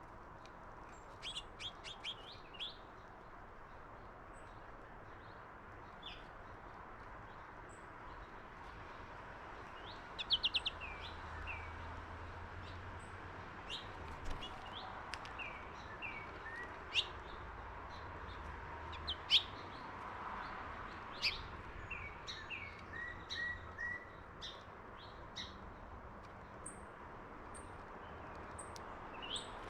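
Small songbirds chirping: short, sharp call notes, many sweeping downward, come singly and in quick runs, with the loudest cluster about ten seconds in, over a steady background hiss.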